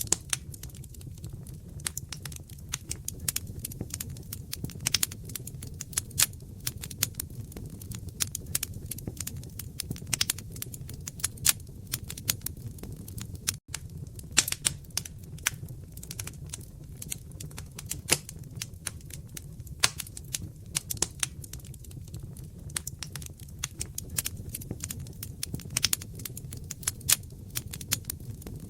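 Wood fire crackling: dense, irregular sharp pops and snaps over a steady low rumble of burning. The sound cuts out for a split second about halfway through.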